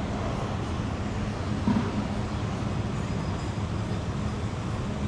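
City street traffic with a vehicle engine running steadily close by, a low even hum under the road noise, and a brief thump about a second and a half in.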